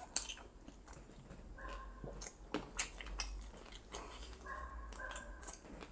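Close-up eating sounds: wet chewing with sharp mouth and lip-smacking clicks. Short, high, squeaky tones come in about a second and a half in and again near the end.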